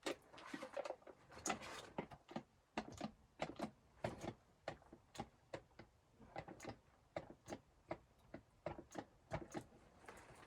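A string of irregular light clicks and knocks, several a second.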